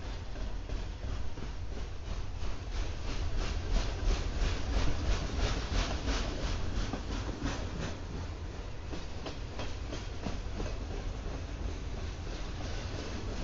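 Freight train flatcars rolling past: a steady low rumble of steel wheels on the rails, with a rhythmic clicking of wheels over the track that is loudest about four to six seconds in.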